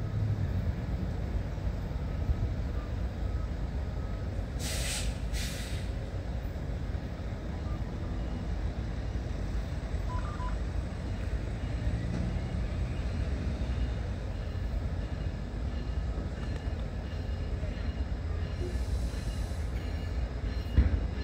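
Capitol Corridor passenger train approaching the station, a steady low rumble, with two short hisses about five seconds in.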